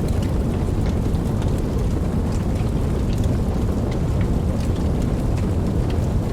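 Steady heavy rain with a deep, even rumble and scattered sharp drop ticks on top.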